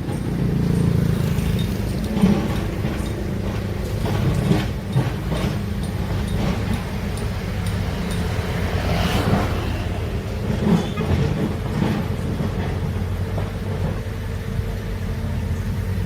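Large diesel engine of heavy earthmoving machinery running steadily, with a few short clanks and knocks.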